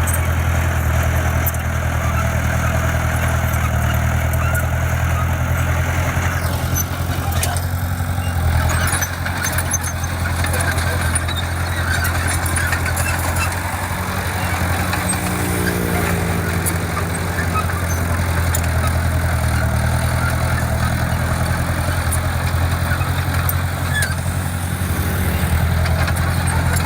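Diesel engine of heavy earthmoving equipment running steadily and loudly, with scattered clicks and rattles over it; the sound shifts briefly about seven to eight seconds in.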